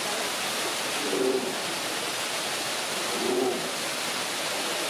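Short low cooing calls, one about every two seconds, over a steady rushing noise like running water.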